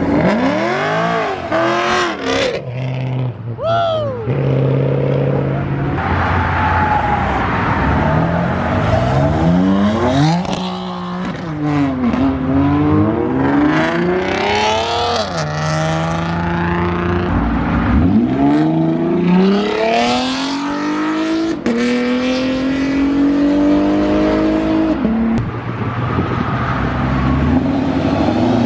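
Performance car engines revving and accelerating hard away from a car meet exit, one after another. Engine pitch climbs and falls repeatedly with each gear change, with steadier stretches between pulls.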